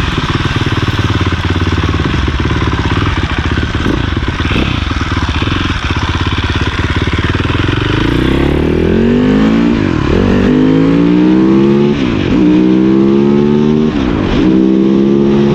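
Cannondale 440 dirt bike's single-cylinder four-stroke engine, steady at low revs for about the first half. It then accelerates through the gears: the revs climb and drop sharply at three upshifts about two seconds apart, then hold higher.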